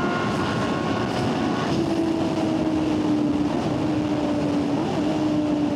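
Sport-bike engine running at highway speed under wind noise. The engine note changes about 1.7 seconds in, then holds a steady tone that slowly falls in pitch.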